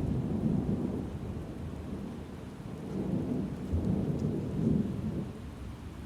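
Thunderstorm: low rolling thunder rumbling and swelling twice, easing off near the end, over a steady hiss of rain.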